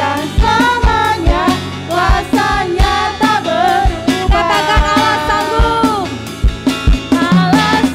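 Upbeat worship song: a sung melody over bass and drums, with a steady kick-drum beat about twice a second.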